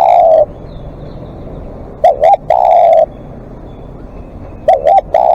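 Spotted dove cooing close by, repeating its phrase about every two and a half seconds: two short rising-and-falling coos, then a longer held coo. One phrase ends just at the start, one full phrase comes about two seconds in, and another begins near the end.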